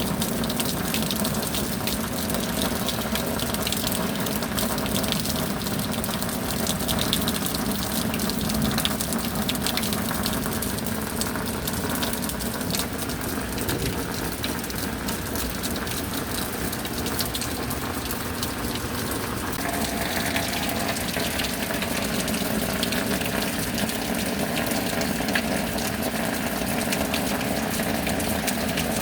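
Steady rain: a dense, even hiss of falling water with many small drop hits. Its tone shifts slightly about twenty seconds in.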